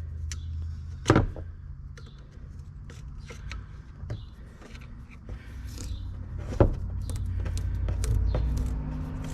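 Metal parts of a hydraulic cylinder being handled and tapped during disassembly: scattered light clicks and taps, with two sharp knocks, about a second in and at about six and a half seconds, over a steady low hum.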